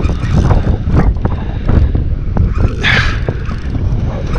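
Wind rumbling and buffeting on the microphone, with scattered handling clicks and knocks and a short hissing burst about three seconds in.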